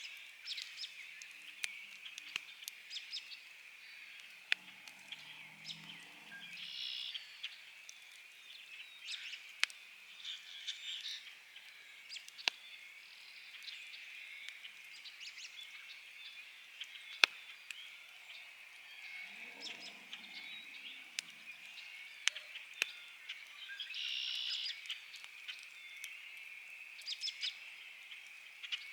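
Campfire crackling, with scattered sharp pops (one louder pop about two-thirds of the way in), over a steady high-pitched chorus of frogs. A few bird chirps come and go, and there are two brief low rumbles.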